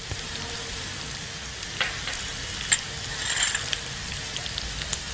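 Cut okra sizzling steadily as it fries in oil in a pan, with a couple of light clicks.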